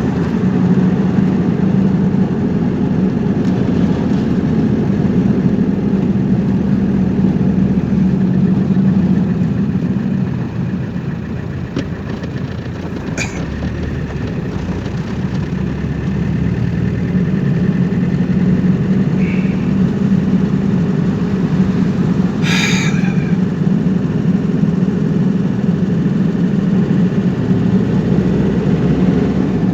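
A car driving, with steady engine and road noise that eases off for a few seconds about a third of the way through. Two brief sharp sounds cut through it, one near the middle and one about three quarters of the way in.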